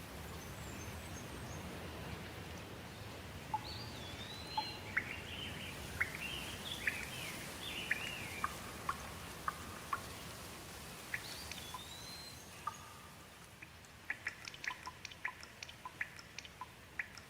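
Steady rain with birds calling over it, a string of short whistled and sliding chirps. Near the end the rain thins and a quick run of sharp ticks comes in.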